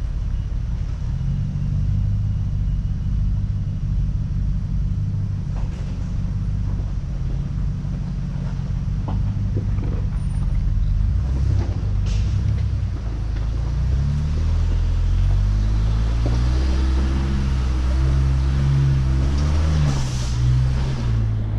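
Off-road truck engine running at low revs, then revving up and down in uneven steps during the last third as it works under load over rough ground. A few faint knocks come through.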